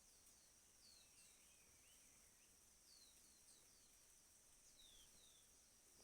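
Faint outdoor ambience: short, falling bird chirps repeating at irregular intervals over a steady high-pitched insect hum.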